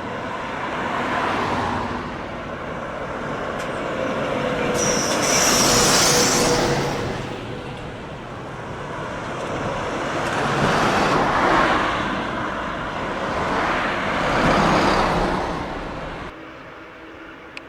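Decorated diesel trucks with manifold-split (mani-wari) exhausts driving past one after another, the engine sound swelling and fading four times as each truck passes. A loud hiss of air starts about five seconds in and lasts a couple of seconds.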